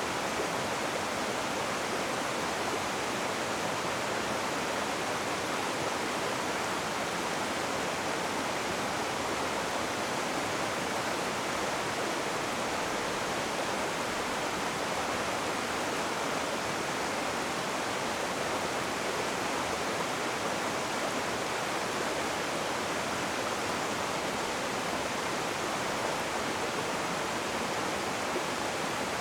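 Rushing river water, a steady, even rush without any breaks or single splashes.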